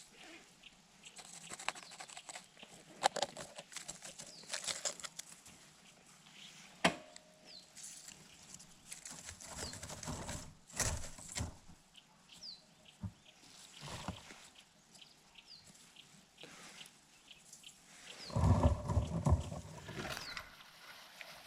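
Rustling and small knocks with a few short, high, falling chirps from a small bird. A louder burst of rustling or flapping about two seconds long comes near the end.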